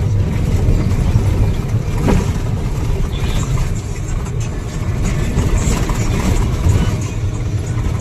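A motor vehicle running steadily with a low rumble, as heard from on board.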